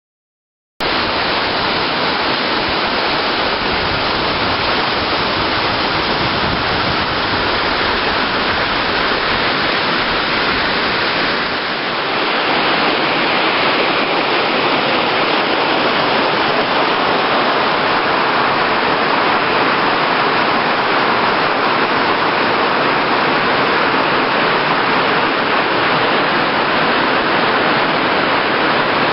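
Hossawa Falls waterfall: a steady rush of falling, splashing water that cuts in suddenly about a second in.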